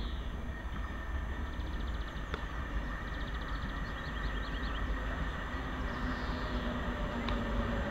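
Class 390 Pendolino electric train approaching, a steady rumble slowly growing louder, with a low whine coming in near the end.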